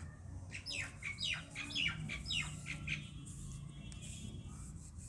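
A bird calling: a quick run of about six calls, each falling in pitch, starting about a second in and lasting about two seconds, over a low steady background rumble.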